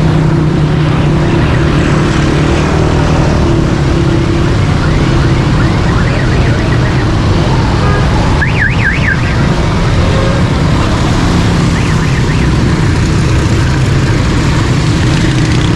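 Traffic noise: vehicle engines running with a steady rushing noise. A short, rapidly warbling electronic siren tone sounds about eight seconds in, with fainter bursts before and after.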